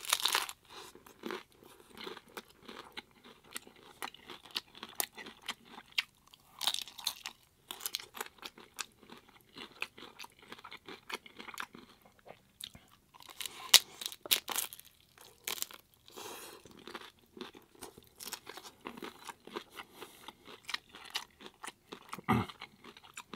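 Hard-shell corn tacos being bitten and chewed close to the microphone: crisp crunching throughout, with louder bursts of cracking at each bite, one at the start and one near the end.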